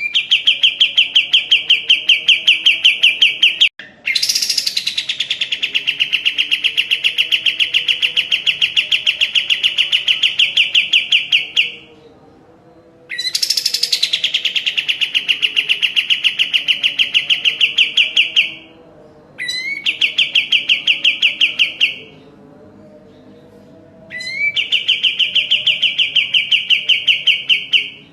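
Kapas tembak bulbul singing in five long bouts of rapid, evenly repeated notes held at one pitch. Each bout opens with a quick sweeping note, and the bouts are separated by short pauses.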